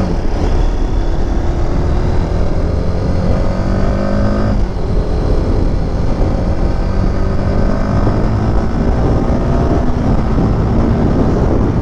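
Motorcycle engine accelerating under way, its pitch climbing until a gear change about four and a half seconds in, then climbing more slowly again and levelling off near the end.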